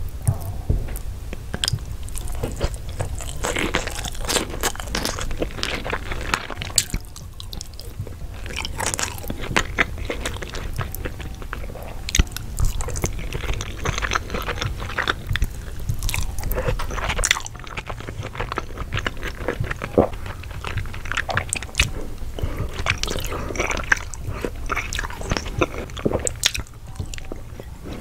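Close-miked eating of orange spiced rice with chicken, eaten by the handful: wet chewing, biting and crunching in dense, irregular clicks.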